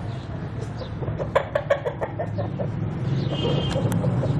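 Aseel rooster clucking: a quick run of about ten short clucks, around six a second, starting about a second in. A steady low hum lies underneath.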